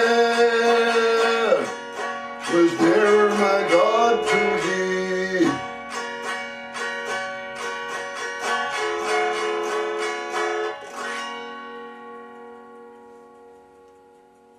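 Male folk singer finishing the last line of the ballad over a plucked-string accompaniment. A few picked chords follow, and a final chord is left ringing, fading away.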